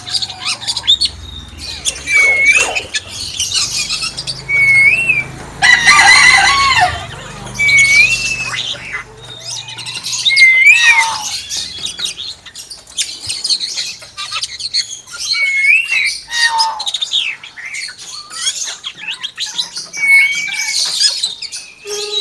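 Hill myna repeating a short up-and-down whistle every two to three seconds, with quick high chirps and clicks in between and one longer harsh call about six seconds in.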